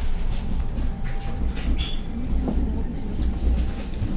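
Train running on the rails, heard from inside the carriage: a steady low rumble of the wheels, with a few faint clicks and a brief high squeal about two seconds in.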